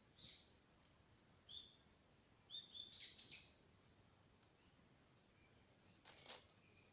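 A bird calling in short chirps, a single one, another about a second and a half in, then a quick run of them around three seconds in, the loudest sound; between them a few faint pops from a wood fire and a brief crackling burst about six seconds in.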